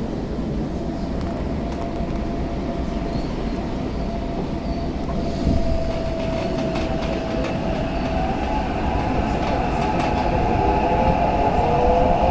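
Tokyo Metro 8000 series electric train coming into the platform: a steady low rumble with a humming tone, then motor whine and wheel-on-rail noise growing louder over the last few seconds.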